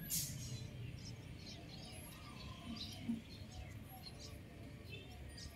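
Small birds chirping in the background: many short, high calls scattered throughout, over a low rumble. A brief loud noisy burst comes right at the start, and a short low thump about three seconds in.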